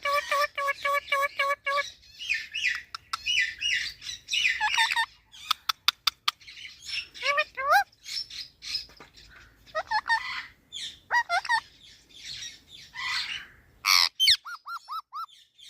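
Green parrot chattering in a long run of varied calls: chirps, squawks and swooping whistles, opening with a quick string of about eight repeated notes and closing with a short run of small up-and-down whistles.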